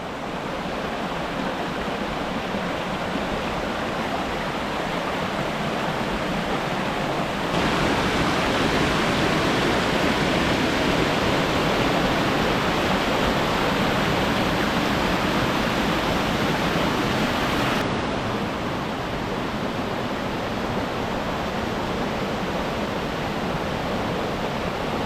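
Waterfall rushing over rock in a steady roar of falling water, louder from about seven seconds in until about eighteen seconds in.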